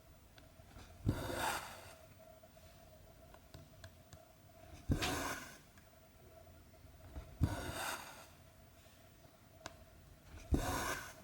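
Needle and cotton thread being pulled through 14-count cross-stitch fabric: four stitches, each a sharp poke of the needle followed by a short swish of thread drawn through the cloth, a few seconds apart.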